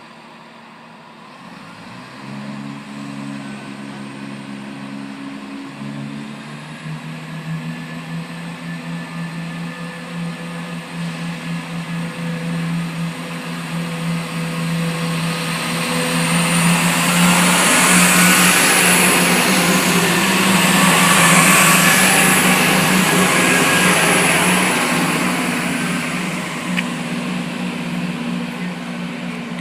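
A train running through a railway station. The noise builds to a peak about two-thirds of the way through and then eases off, over a steady low hum, with faint high whines at the loudest part.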